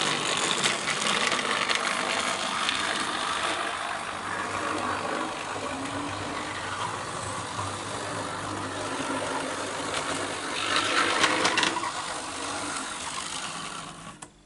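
Tri-ang model Class 31 diesel locomotive running along model railway track: its small electric motor whirring and its wheels clicking and rattling over the rail joints. It gets louder about ten seconds in, then fades away just before the end.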